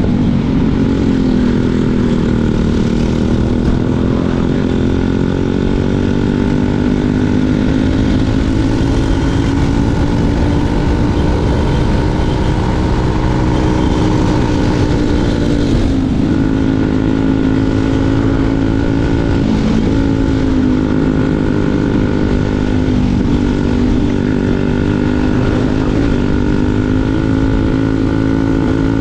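Kart's 206 Super Stock single-cylinder engine running hard on track, its pitch dropping several times and climbing back as it slows for corners and accelerates out.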